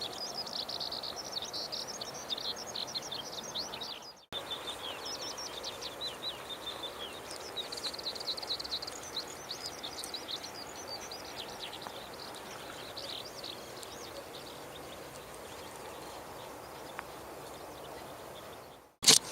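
Many small birds chirping rapidly and continuously over steady background noise. The sound cuts out briefly about four seconds in and again near the end, where a single loud knock follows.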